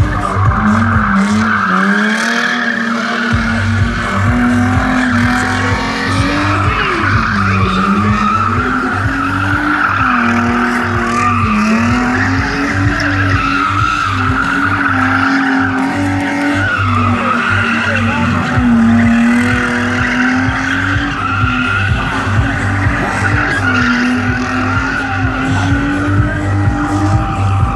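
Stunt car engine revving up and down over and over while its tyres squeal and skid.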